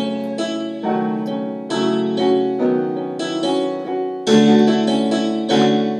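Electronic keyboard playing slow, sustained chords in a piano sound, a new chord struck about once a second: the closing bars of a children's song.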